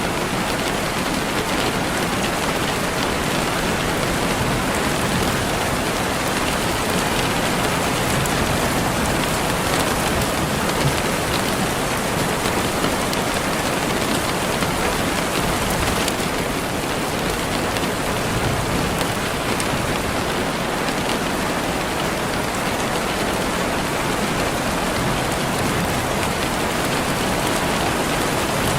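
Steady rain falling on a surface, an even, unbroken hiss of drops.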